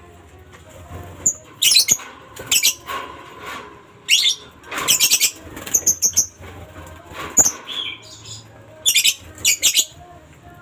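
Lovebirds in their breeding cages giving short, shrill, chattering calls in repeated bursts, about a dozen of them.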